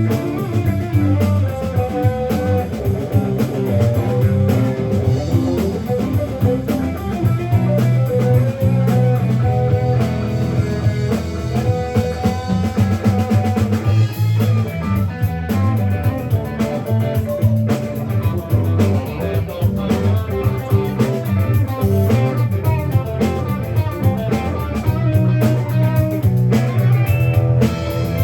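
Live rock band of electric guitars, bass guitar and drum kit playing an instrumental passage with no vocals.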